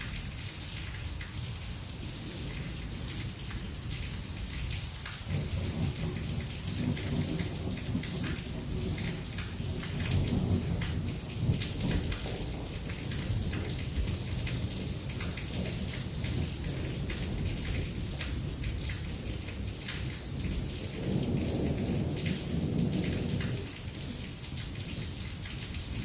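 Heavy rain pouring steadily, with thunder rumbling low for several seconds from about five seconds in, and again for a few seconds near the end.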